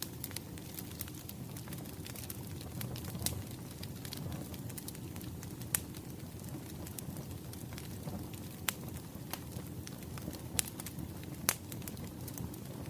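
Wood fire crackling, with irregular sharp pops of burning logs over a steady low rumble of flames.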